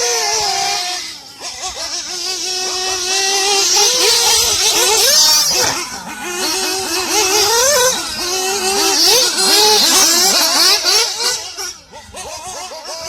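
Small nitro glow engine of a 1/8-scale RC buggy revving up and down as the buggy is driven, its high, buzzing pitch rising and falling constantly. The throttle drops off briefly about six seconds in and again near the end.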